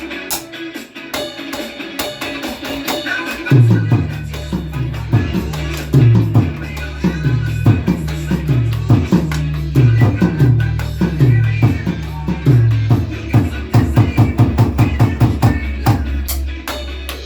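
Up-tempo rock music: a drum kit keeps a steady beat under a bouncing bass line, with guitar higher up. The bass enters about three and a half seconds in and plays quicker repeated notes near the end.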